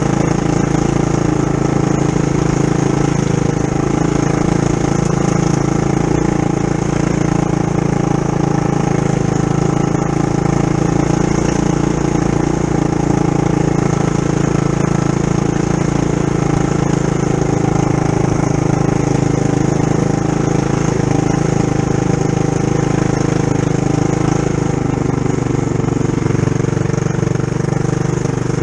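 Trail Master MB200-2 mini bike's Tillotson 212cc single-cylinder four-stroke engine, stage-one tuned with its governor removed, running at a fairly steady pitch as the bike rides along.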